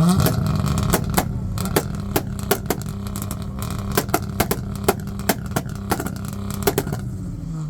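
Tuned car engine held at steady high revs, letting off a rapid, irregular string of loud exhaust pops and bangs, then the revs drop away near the end.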